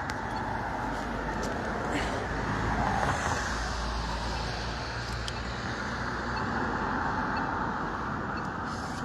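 Road traffic noise: a steady wash of passing vehicles, with a low rumble that swells near the middle as a vehicle goes by and fades again.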